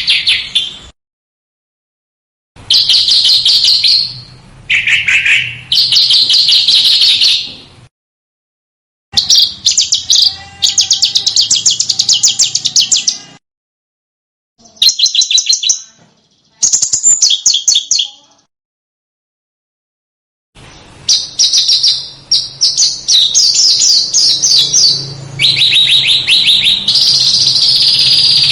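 Small songbird singing fast, sharp, high-pitched chirping trills in bursts of a few seconds, with brief silent breaks between the phrases.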